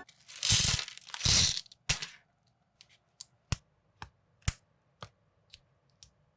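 Plastic building-block pieces being handled: two bursts of rustling, then a run of sharp plastic clicks about every half second as bricks are set down or snapped together.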